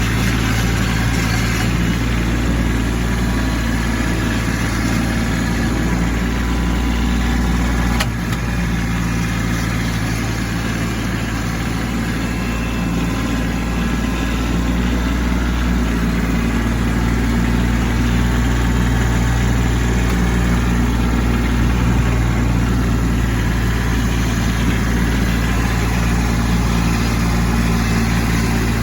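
Kubota B2601 compact tractor's three-cylinder diesel engine running steadily while the tractor pushes snow, with a single brief click about eight seconds in.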